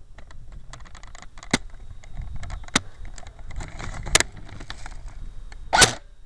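Airsoft G3 rifle firing single shots, about four sharp pops a second or so apart, the last one a little longer, with rattling and clicking from the gun and its mounted camera being handled between shots.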